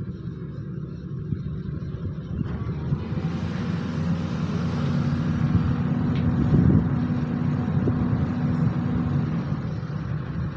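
Sany SY215C excavator's diesel engine running, growing louder from about two and a half seconds in as it takes load. A steady hum sits over the rumble through the middle, then eases near the end.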